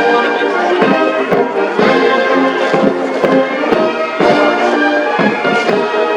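Military band playing, with held chords from the wind and brass sections and frequent sharp percussive hits.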